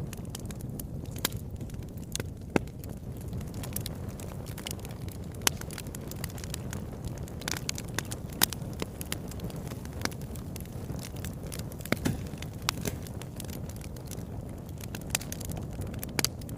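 Wood fire burning in a fireplace: a steady low rumble of flames with irregular sharp crackles and pops from the burning logs, a few standing out louder than the rest.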